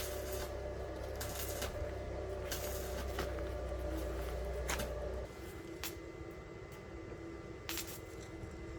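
A steady machine hum that cuts off suddenly about five seconds in, with scattered sharp clicks and knocks throughout.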